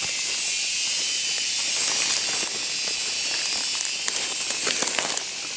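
Jungle insects buzzing in a dense, steady, high-pitched drone, with a few faint snaps near the end.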